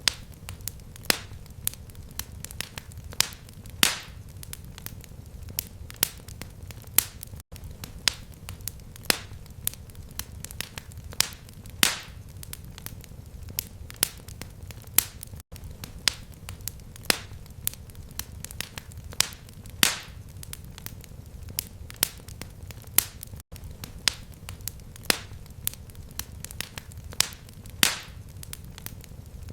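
Fireplace fire crackling, with irregular sharp snaps and pops over a steady low rumble. The sound drops out briefly about every eight seconds.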